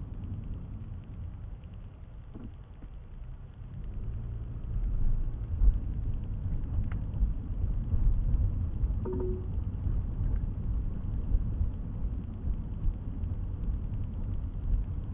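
Car driving, heard from inside the cabin: a low steady rumble of engine and road noise that grows louder about four seconds in, as the car picks up speed.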